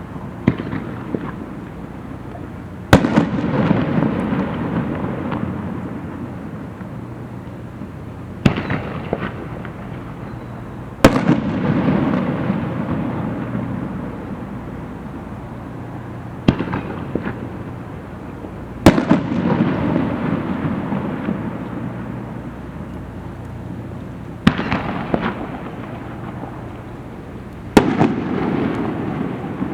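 Aerial firework shells bursting at a display: about eight sharp bangs a few seconds apart, the biggest each followed by a long rolling echo that fades away, and a few followed by quick crackles.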